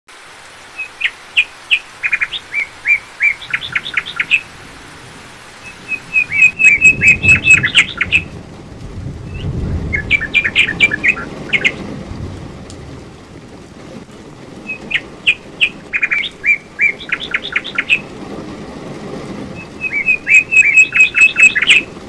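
A songbird sings a short, rapid phrase of repeated sharp notes five times, over a steady hiss of falling rain. A low rumble swells in beneath the rain from about six seconds in.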